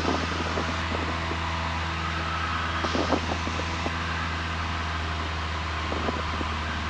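Steady drone of a Cessna 172N's four-cylinder Lycoming engine and propeller, heard inside the cabin during a slow climb in the traffic pattern, with an even hiss over a low hum.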